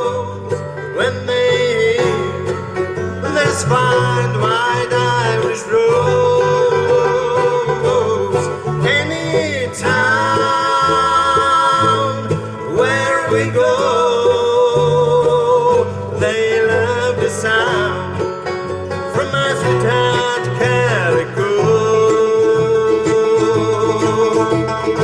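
Acoustic folk band playing an instrumental break, banjo and guitar over a steady rhythm with a sliding, wavering lead melody.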